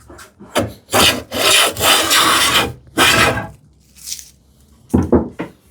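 Wood scraping against wood in a few long strokes of about a second each, bunched in the middle, then a short scrape near the end.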